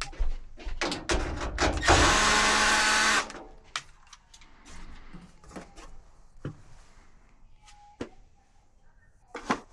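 A power tool runs for about a second amid rapid clicks and knocks of tools and metal parts being handled, then only scattered light clicks and taps.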